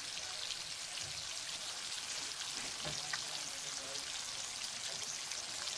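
Shrimp sizzling in a wok of garlic butter and oyster sauce: a steady, fine crackling hiss.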